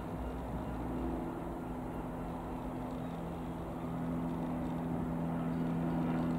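Piper PA-28-180 Cherokee's four-cylinder piston engine droning steadily as the light aircraft flies past, growing a little louder near the end.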